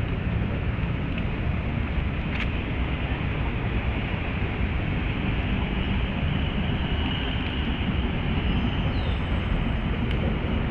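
Steady low rumble and hiss of outdoor background noise, with a single click about two seconds in and a faint short chirp near the end.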